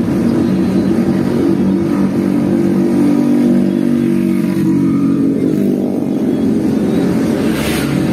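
Motorcycle engine running steadily at cruising speed, its note dropping out briefly about five seconds in and then picking up again.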